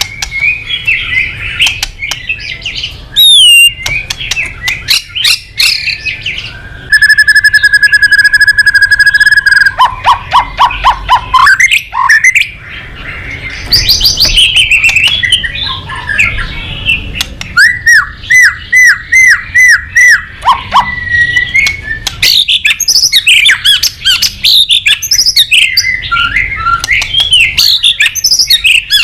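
White-rumped shama (murai batu) singing a long, varied song: whistled phrases, a held tone, fast runs of repeated notes and a series of slurred notes, one phrase after another without pause.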